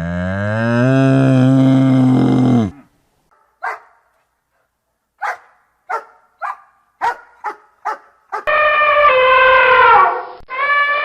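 A cow's long, loud moo ends about two and a half seconds in. A dog then gives about seven short single barks. From about eight and a half seconds a loud, wavering bleating call begins.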